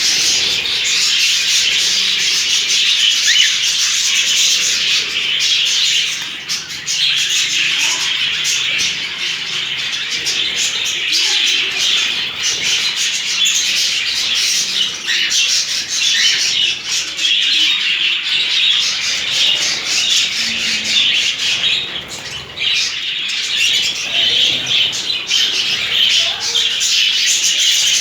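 A flock of budgerigars chattering: a continuous, dense warble of high chirps and squawks.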